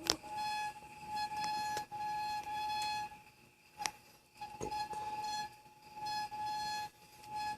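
Avid Elixir 3 rear mountain-bike brake giving off a metallic, whistle-like ringing tone in repeated stretches as the wheel turns slowly, broken by a pause near the middle and two sharp clicks. The owner traces the noise to the rear brake line; it stops when the brake lever is pulled.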